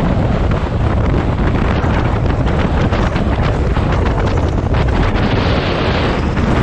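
Loud, steady wind buffeting the microphone, a dense rushing rumble with no let-up.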